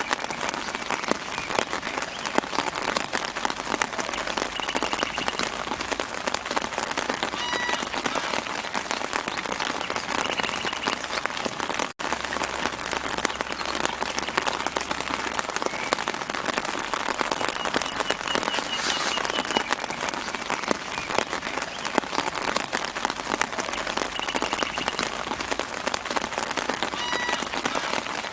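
Steady light rain pattering on tree leaves, a dense hiss of fine drops, with a few faint bird chirps in the background. The sound cuts out for an instant about twelve seconds in.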